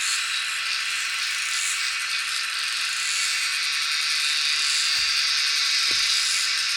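Dense, steady chorus of insects, a high shrill buzz with a pulsing shimmer that swells and fades every second or so. Two faint low knocks come about five and six seconds in.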